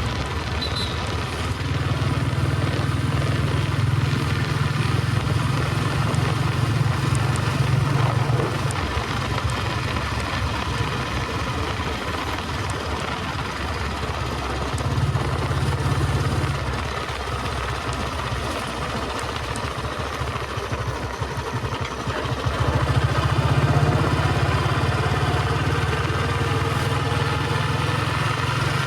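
Royal Enfield Bullet 350 Electra's cast-iron single-cylinder engine running under way on the road. Its low thump swells and eases several times as the throttle is opened and rolled off.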